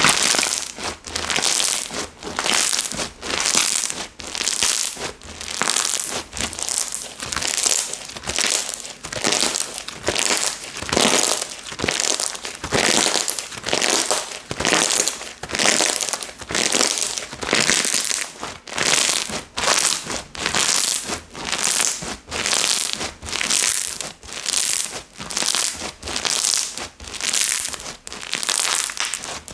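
Slime being squeezed and pressed by hand over and over, making crackly, squishy sounds at about one squeeze a second.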